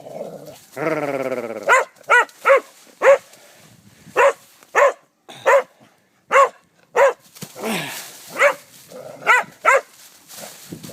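Appenzeller Sennenhund barking: a drawn-out cry about a second in, then a dozen or so short, sharp single barks at uneven spacing, roughly one every half second to second.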